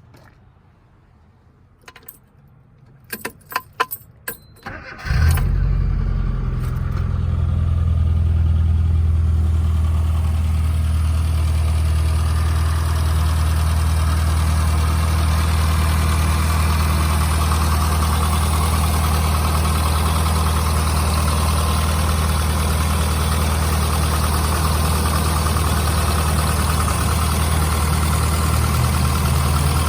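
1995 Rover Mini Cooper's 1.3-litre A-series four-cylinder engine being started: a few sharp clicks, then the engine catches about five seconds in and settles into a steady idle.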